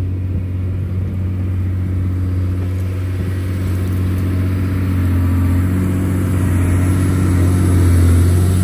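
John Deere 670 GP motor grader's diesel engine running steadily with a deep, even drone, growing a little louder near the end.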